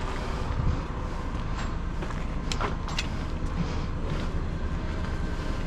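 Heavy diesel engine running steadily at idle, a low rumble, with a few short clicks and knocks over it.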